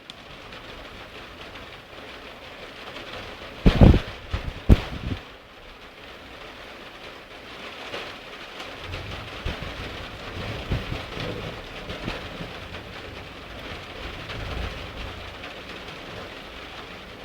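Steady rain during a thunderstorm. About four seconds in comes a burst of loud, sharp cracks, and low rumbling thunder rolls through the second half.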